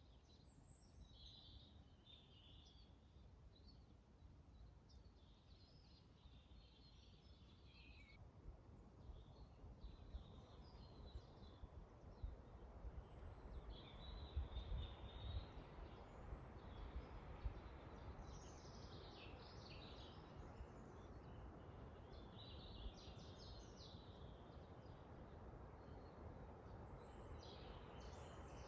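Faint forest birds singing in repeated short bursts of high chirps, over a low wind rumble that strengthens about a third of the way in and gusts near the middle.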